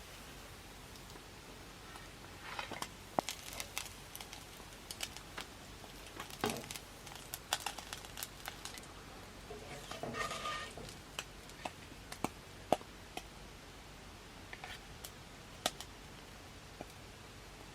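Scattered light clicks and taps with a few short bouts of rustling, as of small things being handled.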